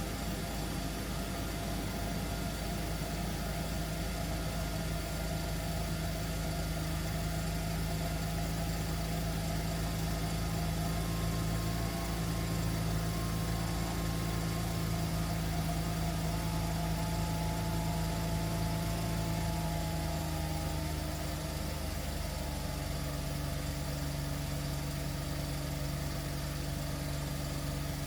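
A 1994 Mercedes E320 coupe's 3.2-litre straight-six idling steadily from cold. About twenty seconds in, the idle steps slightly lower.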